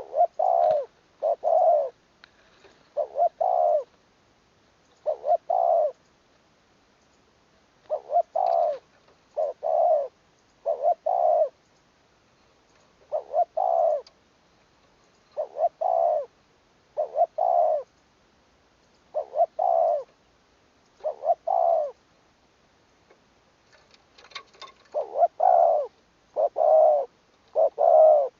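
Spotted dove cooing: short coos in pairs and threes, repeated every couple of seconds, with a few longer pauses between phrases.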